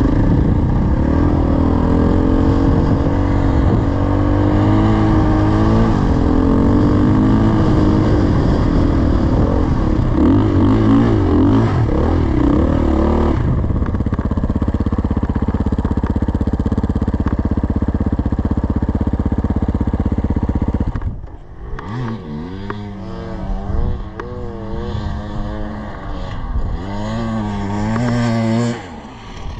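Dirt bike engine running under way, its pitch rising and falling with the throttle, then holding steady for several seconds. About 21 seconds in it drops off sharply and turns quieter, with repeated short revs rising and falling.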